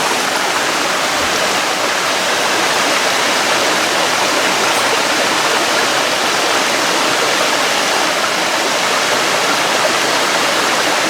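Mountain waterfall, water rushing loudly and steadily.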